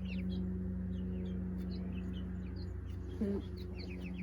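Young chickens peeping in a flock, many short high cheeps in quick succession, over a steady low hum.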